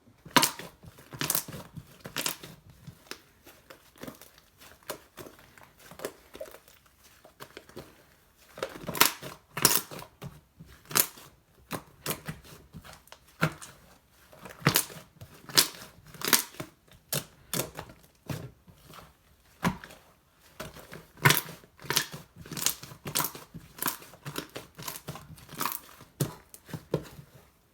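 Slime being squished and stretched, giving irregular crackling clicks and sharp pops in quick clusters, with a few short pauses.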